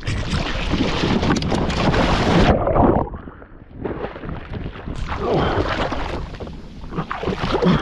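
Water splashing and churning hard around a kayak as a very big fish thrashes at the side. About two and a half seconds in the sound turns dull and muffled for a couple of seconds, then the full splashing returns.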